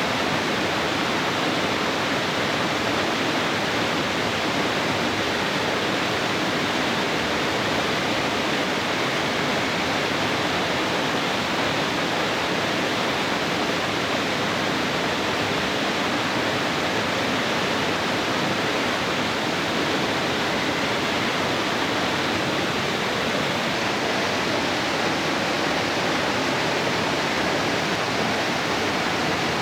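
Waterfall rushing, a loud, steady roar of falling water that does not change.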